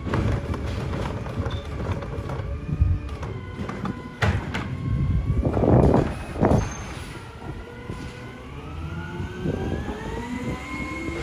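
Heil Durapack Rapid Rail side-loader garbage truck working, its engine and machinery running with several tones at once. There are loud bursts of noise about four seconds in and again around six seconds, and from about eight seconds a whine rises steadily in pitch.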